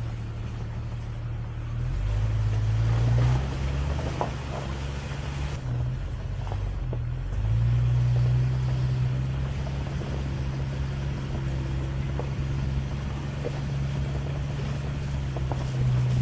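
1999 Jeep Cherokee XJ driving off-road, its engine running with a steady low hum that gets louder about two seconds in and again about halfway through, with scattered light knocks and rattles.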